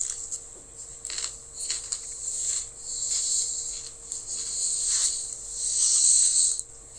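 Someone chewing and crunching a birthday-cake-flavour Oreo sandwich cookie close to the microphone: irregular crunches, loudest a little before the end.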